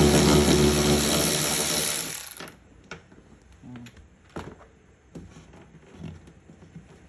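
Power driver with a 10 mm socket spinning out a rear door speaker bolt, running steadily and stopping about two and a half seconds in. A few light clicks and knocks follow as the speaker is handled.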